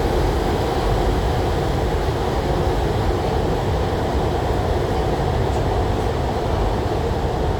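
MTR SP1900 (IKK) electric multiple-unit train running at steady speed, heard from inside the carriage: an even rumble of wheels on rail with no breaks or changes.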